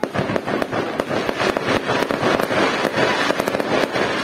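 Fireworks display: a dense barrage of bangs and crackling shells bursting in quick succession, starting suddenly and keeping up without a break.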